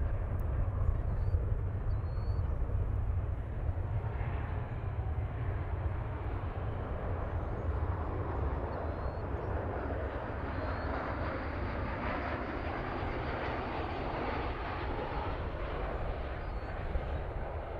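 Jet airliner engine noise: a broad rushing sound over a steady low rumble, growing louder through the middle of the stretch as the aircraft passes.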